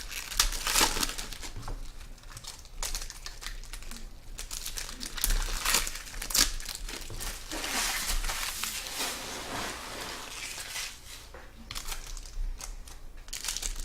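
Trading-card pack wrappers crinkling and tearing in irregular bursts as packs are ripped open and handled.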